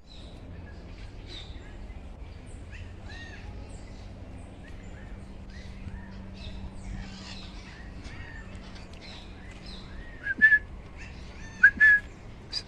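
Parakeets chirping: a string of short arching chirps, with a few louder calls near the end.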